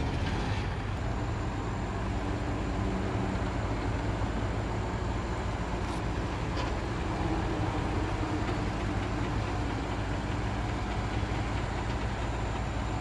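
Diesel engine of heavy earthmoving machinery running steadily, a deep even drone with no marked revving.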